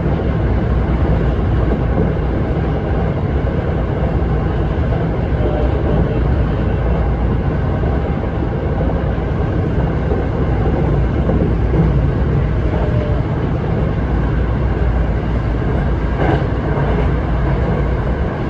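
Seibu Ikebukuro Line commuter train running, heard from inside the car: a steady low rumble of wheels on the rails and the train's running gear. A brief click stands out about sixteen seconds in.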